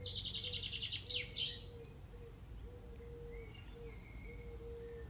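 A bird singing: a fast trill of rapidly repeated high notes for about the first second, then a quick call that slides down in pitch, followed by faint short chirps.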